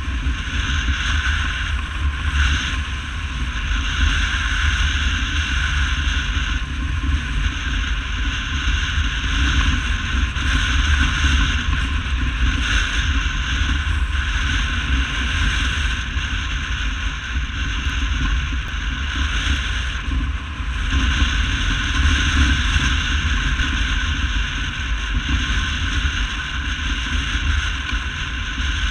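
Steady wind rush on the microphone with a low rumble from a moving motorcycle's engine and road noise, as heard while riding.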